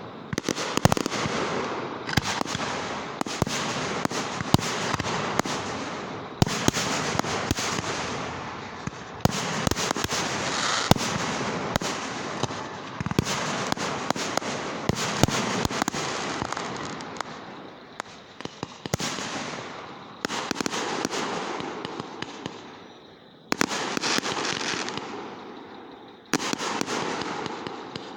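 Fireworks going off one after another: a sharp bang every second or two, each followed by dense crackling that fades away before the next.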